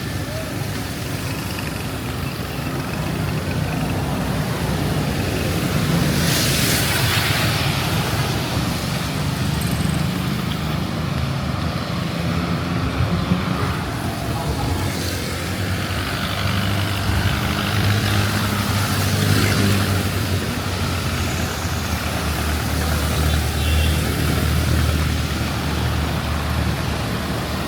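Road traffic on a wet street in the rain: vehicle engines running steadily under a constant hiss of rain and tyres, with one loud hiss lasting about a second and a half around six seconds in.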